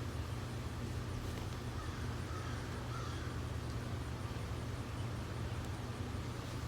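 A bird calling faintly a few times about two to three seconds in, over a steady low hum.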